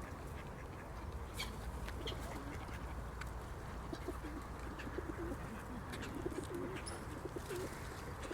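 A large flock of birds calling: many short, low, wavering calls that grow thicker from about four seconds in, with scattered sharp high calls and clicks, over a steady low rumble.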